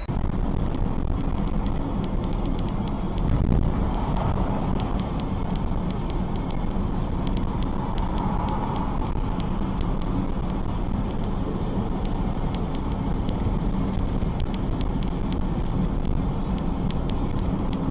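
Steady rumble of a moving car's engine and tyres on the road, as picked up by a dashboard camera, with faint clicks scattered through it.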